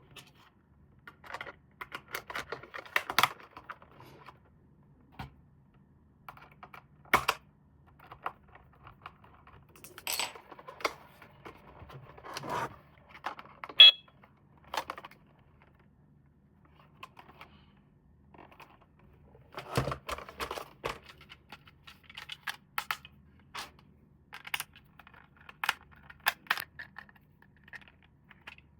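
Irregular clicks, taps and rattles of hard plastic toy parts and packaging being handled, in short clusters with pauses between, and one brief sharp chirp about halfway through.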